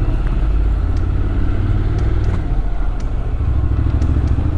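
Motorcycle running steadily under way, a low, even engine drone with wind and road noise.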